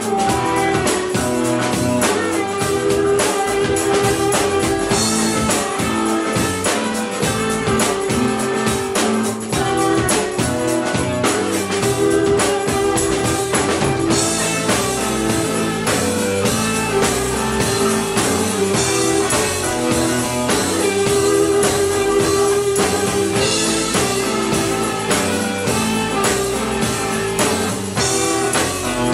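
Rock band playing live, with guitar and drum kit going steadily; no words are made out.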